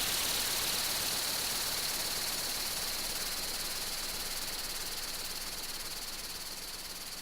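Steady hiss with a faint, high, even tone, slowly fading.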